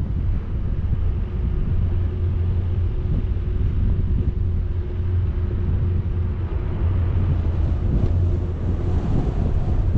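Wind buffeting a moving action camera's microphone over a steady low rumble, as from a vehicle on the road.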